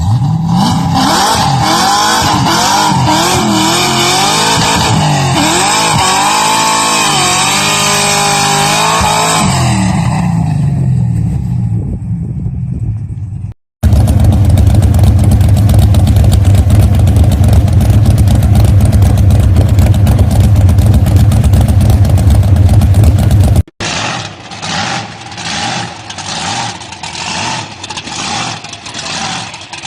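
Loud muscle-car engines. For about the first 13 seconds an engine revs up and down over and over, its pitch rising and falling. It cuts suddenly to an engine running hard and steady at full volume for about ten seconds, then cuts again to short, repeated revs about once a second.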